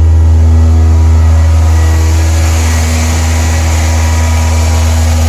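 Toyota Corolla four-cylinder engine held at a fast idle of about 2,000 RPM, running steadily, with the electric radiator cooling fan running over it as a continuous rushing hiss. The fan kicking on means the engine has reached operating temperature with the coolant system bled.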